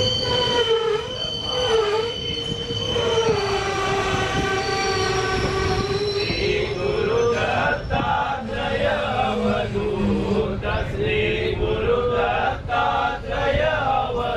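Passenger coach wheels squealing against the rails on a curve: a wavering, high-pitched squeal with overtones that runs on throughout, with clacks over rail joints joining in about halfway.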